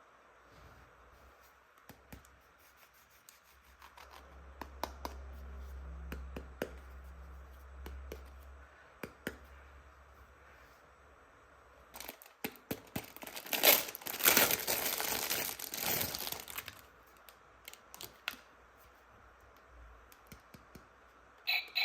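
Plastic packaging crinkling and being torn open, with scattered sharp clicks and taps. The tearing and crackling is loudest for a few seconds just past the middle.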